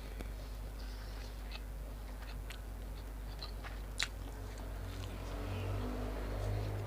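A person chewing food close to the microphone, with small wet mouth clicks and one sharp click about four seconds in, over a steady low hum.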